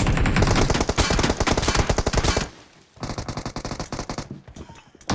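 Video-game automatic gunfire in rapid bursts: a long loud burst, a short pause about halfway, then a quieter burst.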